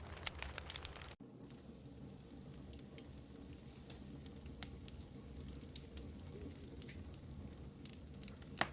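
Wood fire in a fireplace crackling, with scattered sharp pops and one louder pop near the end. The sound cuts out for an instant about a second in.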